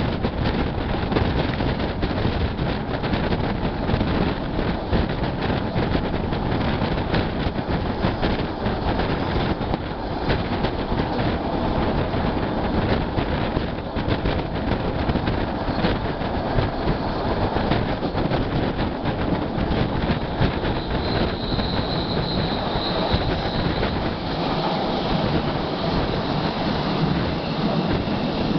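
Passenger train of the Vitória–Minas railway (EFVM) running at speed, heard from an open carriage window: a steady rush of rolling noise with the wheels clicking over the rails. About three-quarters of the way through, a faint high wheel squeal comes and goes.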